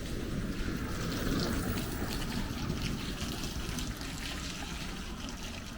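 Rainwater trickling and dripping, with many small patters over a steady low rumble.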